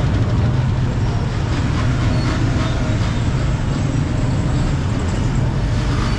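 Busy street traffic: a steady low rumble of engines, with faint clatter over it.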